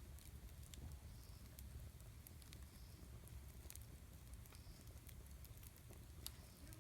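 Wood campfire burning quietly, with scattered sharp crackles and pops from the burning wood over a faint low rumble.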